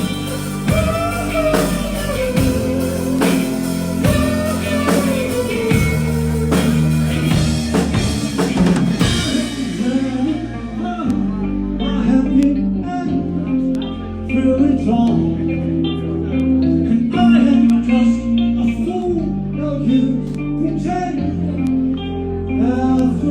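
Live rock band playing: drum kit, electric guitar and bass under a wavering lead melody. About ten seconds in the drums and cymbals drop out, and sparser guitar and bass notes carry the song to its close.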